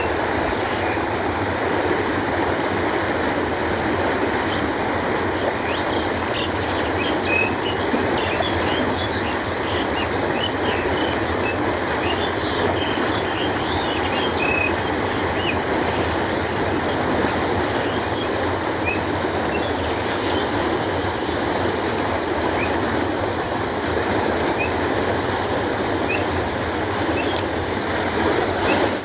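Canal water flowing steadily, an even dense rush. Small birds chirp briefly over it now and then.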